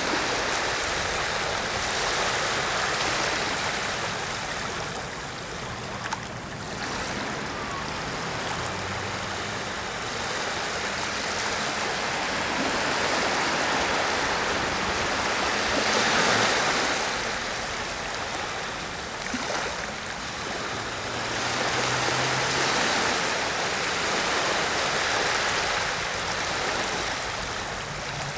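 Small waves washing up and drawing back on a sandy shore, a steady rushing that swells and fades every few seconds.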